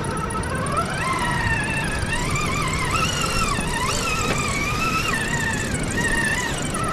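Electric drive motor and gears of an RC scale crawler whining while it creeps over terrain, the pitch wavering up and down with the throttle, over a low rumble of wind or ground noise.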